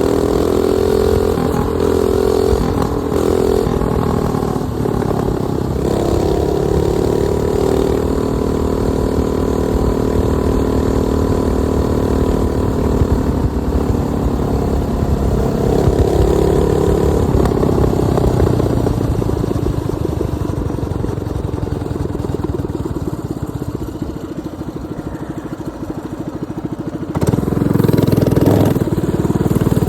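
Minibike's 212cc single-cylinder engine running under way, the throttle opening and easing off so the pitch rises and falls. It drops to a lower, quieter run for a while past the middle, then picks up sharply near the end.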